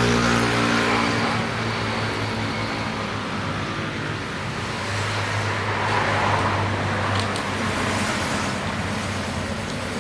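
Road traffic noise: a motor vehicle's engine passes and fades over the first couple of seconds, and a second vehicle swells up about six seconds in.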